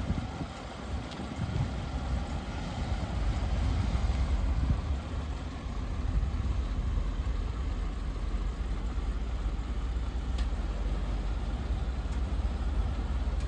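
1985 Rolls-Royce Silver Spirit's 6.75-litre V8 idling steadily after a cold start, a low even rumble; the car is said to run rough and to need a service.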